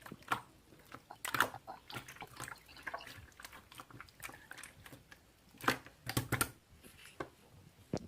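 Irregular close-up clicks and crackles, loudest in a cluster about a second and a half in and another around six seconds in.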